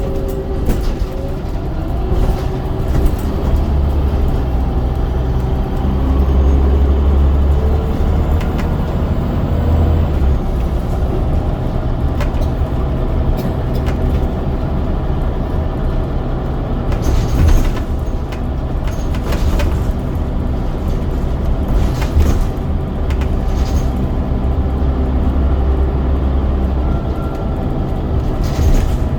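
Scania DC9 9-litre five-cylinder diesel of a Scania N94UD double-decker bus running under way, a heavy low rumble whose pitch shifts as the bus changes speed through its ZF Ecomat automatic gearbox. A few sharp knocks and rattles stand out, the clearest a little past halfway.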